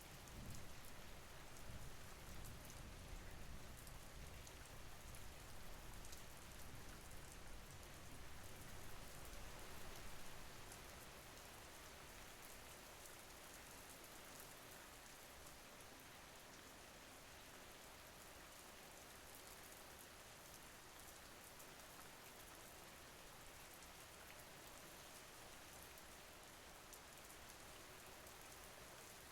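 Soft, steady rain falling, with a low rumble underneath it for the first ten seconds or so.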